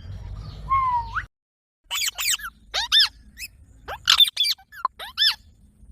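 A parrot giving a rapid string of short, shrill squawks, each a quick sweep in pitch, about ten of them after a brief dead gap near the start. Just before the gap is a single call that slides up at its end.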